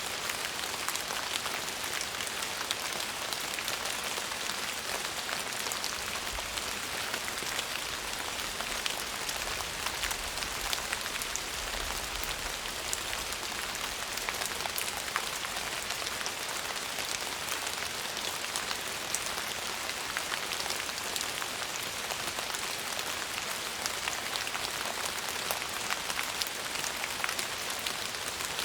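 Steady rain: an even, mostly high-pitched hiss with many separate drops ticking through it.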